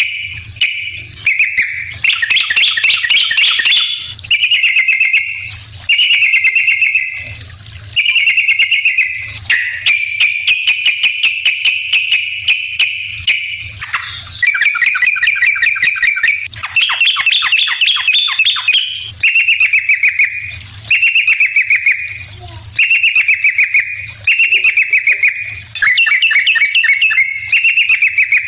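Sooty-headed bulbul (trucukan) calling: loud, rapid chattering trills, one phrase after another every second or two.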